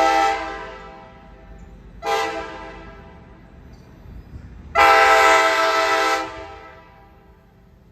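Horn of a Tri-Rail train's GP freight locomotive, a multi-note chord: a long blast ends just after the start, a short toot comes about two seconds in, and another long blast about five seconds in, each echoing away. The long-long-short-long pattern is the standard grade crossing signal.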